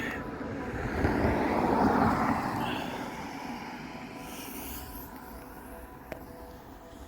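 A vehicle passing by: a rushing swell that builds to a peak about two seconds in, then slowly fades. Underneath, a faint steady hum of several held tones, the mystery sky noise that gets called "God's trumpets".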